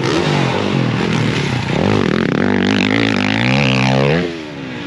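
Dirt bike engine revving on a motocross track, its pitch rising and falling as the throttle opens and closes. One long rising climb ends with the sound dropping off about four seconds in.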